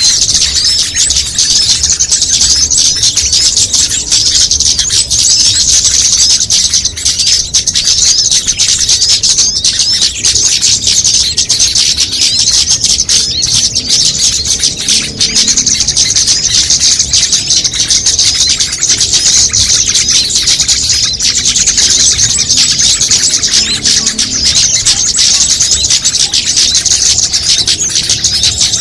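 A dense, unbroken chorus of many small birds chirping and twittering at once, high-pitched and busy: the layered calls of several small bird species mixed together as a bird-lure (pikat) recording.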